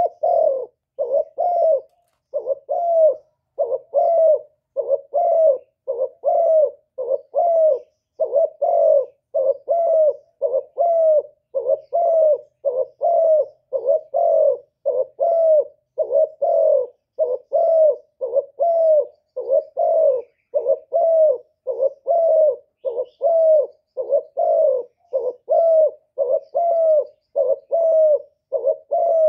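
Spotted dove cooing in a long, even run of short repeated coos, about one and a half a second, with no break: the provoking 'gù' coo of a decoy dove, used to draw wild doves in.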